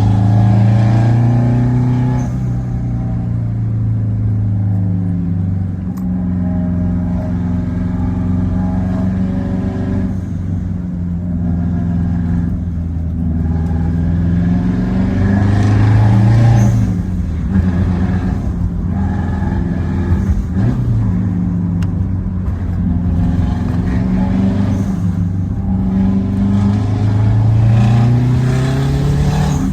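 Subaru Impreza WRX STI GDB-F's turbocharged flat-four, fitted with an unequal-length twin-scroll exhaust manifold and a straight-through silencer, pulling through the gears. The exhaust note climbs in pitch and then drops back at each upshift, about six times. The loud exhaust distorts the recording in places.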